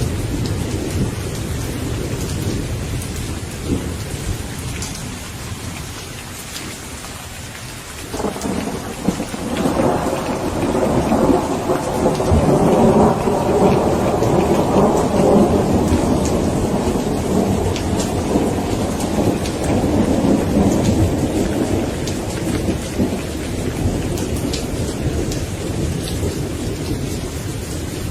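Steady rain falling, with a long rolling thunder rumble that surges in about eight seconds in, peaks, and slowly dies away over the next dozen seconds.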